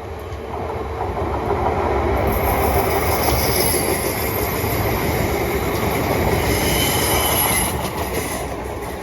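Class 380 electric multiple unit passing through the station at speed without stopping. The wheel and rail noise swells over the first two seconds, holds loud with a high hiss, then fades after about eight seconds.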